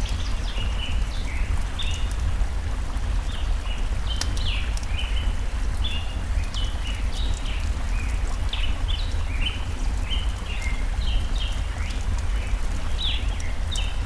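Birds singing continuously in short chirping notes, a few each second, over the steady low rush of a forest stream, with a few faint crackles from a campfire.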